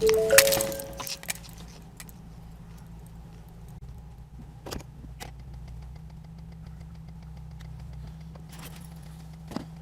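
The tail of a car crash: debris and glass clatter for about a second, with a short tone in it. Then comes a steady low vehicle engine hum with a few faint clicks.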